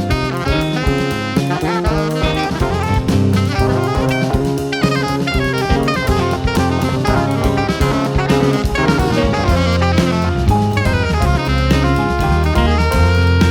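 Live jazz quintet playing: saxophone, piano, guitar and bass over a busy drum kit, with quick runs of notes.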